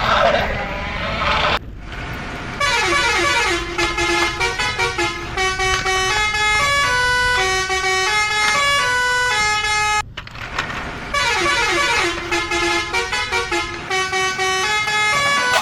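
A harsher, rough tone for about the first second and a half, then a bright electronic jingle of quick stepping notes that plays through, stops for about a second, and starts over.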